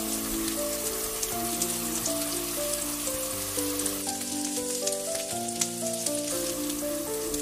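Diced potatoes sizzling and crackling in oil in a frying pan, as they are stirred with a wooden spatula, under background music with a melody of held notes.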